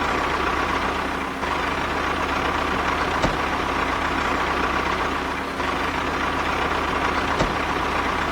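Steady running of a motor, a low engine-like hum with a thin high whine on top, broken only by a couple of faint clicks.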